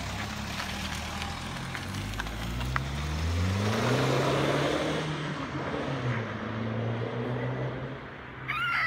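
BMW 320d's N47 two-litre four-cylinder turbodiesel, its DPF removed and a downpipe fitted, pulling away past the camera. The engine note rises in pitch for a couple of seconds as it accelerates, is loudest about four seconds in, then eases off and fades as the car drives away.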